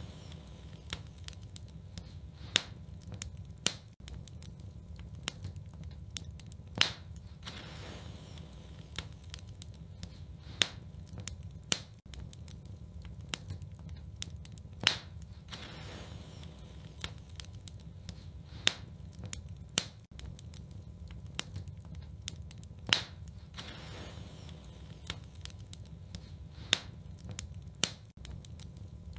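Wood fire in a fireplace crackling: sharp pops and snaps every few seconds over a steady low rumble of flames.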